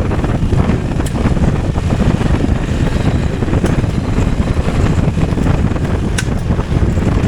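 Wind buffeting the microphone of a moving motorcycle, a loud steady rumble with the bike running under it, and a few sharp clicks.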